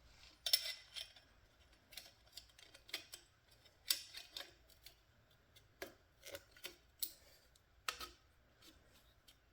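Scattered light clicks, taps and scrapes of hand work on motorcycle fork parts, about a dozen short irregular sounds with quiet between them.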